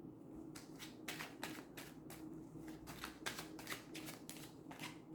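A tarot deck being shuffled by hand: a quick, irregular string of soft card flicks and slaps starting about half a second in, over a faint steady low hum.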